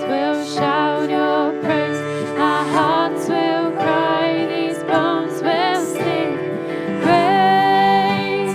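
Church worship band playing a slow song: a wavering melody line over sustained keyboard chords and a held bass note.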